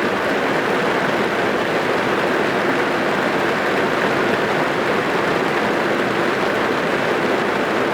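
Heavy rain drumming steadily on a car's roof and windows, heard from inside the cabin as a dense, even hiss with no separate drops standing out.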